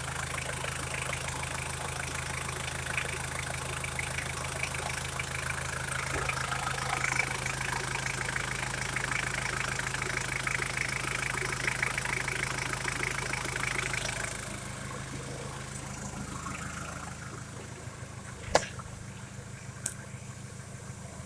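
A Mitsubishi Triton's 2.8-litre 4M40 four-cylinder turbo diesel idling steadily. It gets quieter about two-thirds of the way through, and there is a sharp click near the end.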